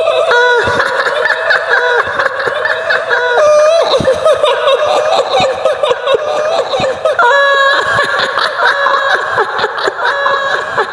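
High-pitched woman's laughter, the eerie cackle of the kuntilanak ghost of Indonesian folklore, going on throughout in long, high, wavering notes broken by short pauses.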